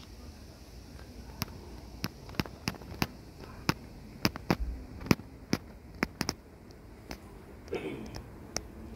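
About fifteen sharp, irregular clicks and taps spread over several seconds, with a short rustle near the end.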